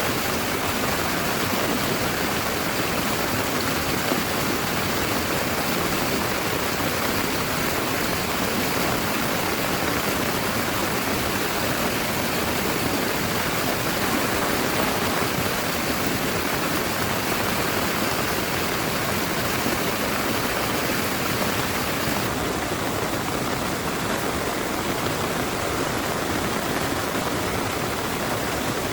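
Heavy rain pouring steadily, a dense even hiss with no breaks; the high part of the hiss eases slightly about three quarters of the way through.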